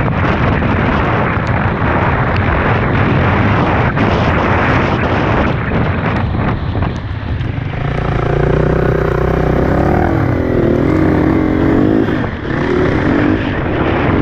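Dirt bike being ridden, with wind rushing over the microphone and many sharp knocks from the rough trail. Past halfway the engine note comes through clearly for a few seconds, wavering up and down in pitch with the throttle, then the wind noise takes over again.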